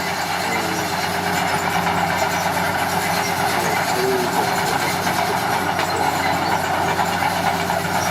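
Komatsu D41P bulldozer's diesel engine running steadily under load, with a dense steady clatter over the engine note.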